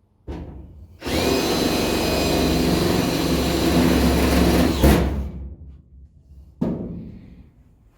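A power tool runs steadily for about four seconds with a high whine, then cuts off sharply; a single knock comes just before it starts and another about two seconds after it stops.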